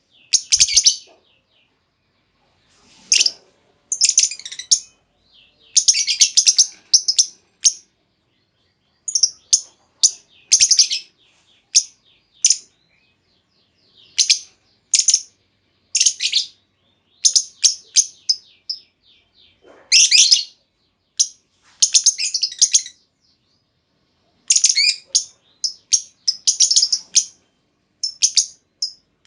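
Female lovebird giving sharp, high-pitched chirping calls in quick runs, with pauses of a second or two between the runs.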